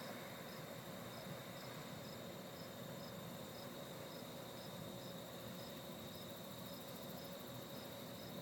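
Crickets calling: one steady high trill, with a separate short high chirp repeating about twice a second.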